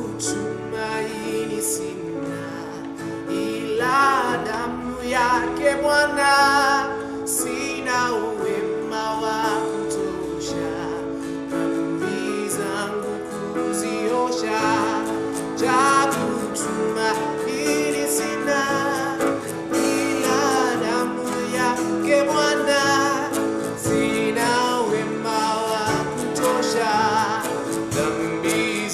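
Live gospel worship song: singers with instrumental accompaniment, held chords under the voices.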